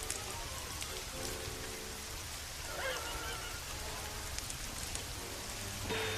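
Steady rain falling, with a few sharp ticks scattered through it. A faint wavering tone comes in about halfway, and a brief louder sound comes near the end.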